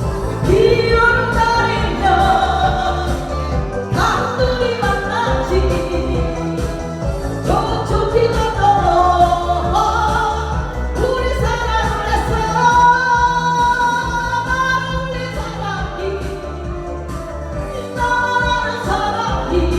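A singer's voice carrying a slow, held melody over a backing track with a steady bass beat.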